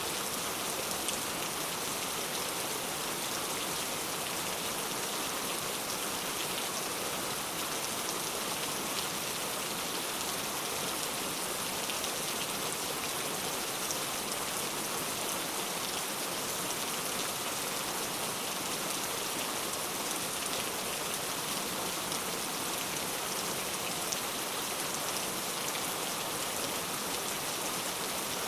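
Heavy rain falling steadily, a dense even hiss of drops striking surfaces with occasional sharper individual drop ticks.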